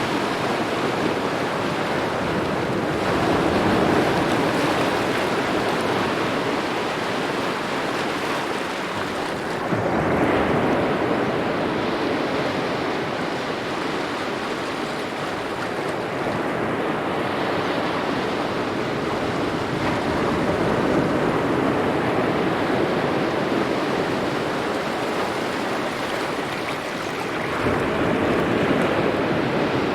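Small ocean waves lapping at the shore in a continuous wash, swelling and easing every several seconds, with a fresh surge about ten seconds in and another near the end.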